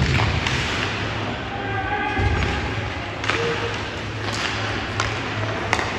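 Ice hockey play in an arena: sharp clacks of sticks and puck and dull thumps, over a steady low rumble of the rink, with faint voices in the background.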